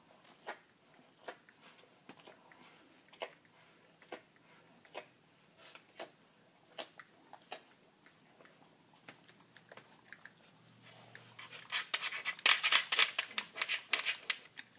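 Dog licking herself: soft wet smacking licks, spaced out at first, then coming faster and louder near the end.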